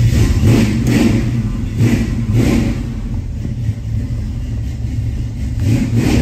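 Plymouth Duster's 360 V8 with headers running just after starting: the throttle is blipped a few times in the first couple of seconds, it settles to a steady idle, then rises again near the end.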